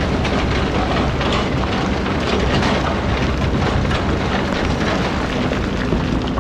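Excavator engine running under load, with a continuous dense rattle and crunch of sand and stone being moved.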